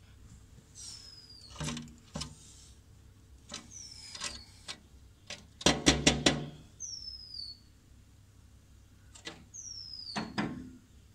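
Woodpecker striking a glass mirror with its bill: single hard taps here and there and a quick run of about six strikes midway. A short, high, falling whistled bird note repeats about every three seconds.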